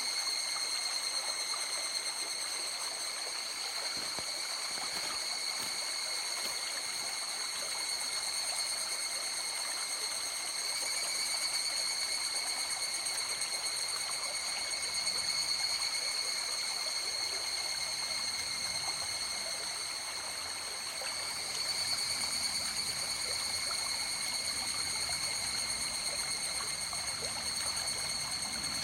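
River water flowing, a steady rushing and trickling. Several steady high-pitched ringing tones sit over the water the whole time.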